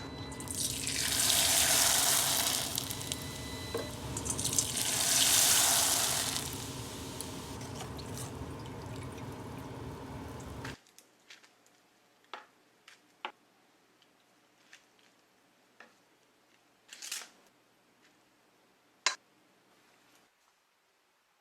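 Kitchen tap running into a sink, with two louder gushes as something is rinsed under the stream; the water shuts off abruptly about eleven seconds in. Then a few light clicks and knocks of kitchenware follow.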